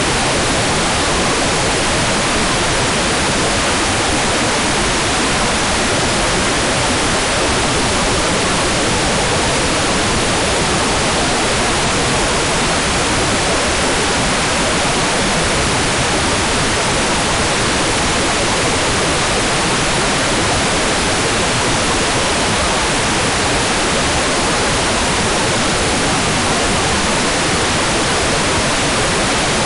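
Hair dryer running steadily: an even, unbroken rushing hiss with no change in level or pitch.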